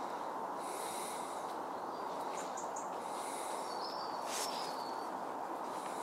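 Steady rushing background noise with a few faint, high-pitched bird calls: short peeps a little over two seconds in and a brief whistle with a click a little after four seconds.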